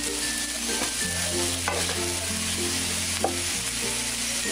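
Spatula stirring sliced potatoes and onions as they fry in spices in a non-stick pan, over a steady sizzle, with a few sharp scrapes against the pan about half a second, one and a half seconds and three seconds in.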